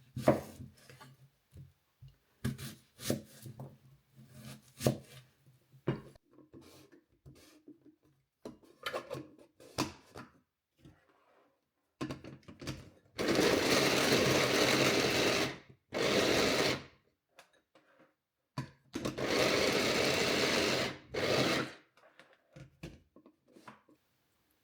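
Scattered kitchen knocks and clicks, then an electric blender run three times in short bursts, the first and last about two and a half seconds long and the middle one about a second, as if blending soup.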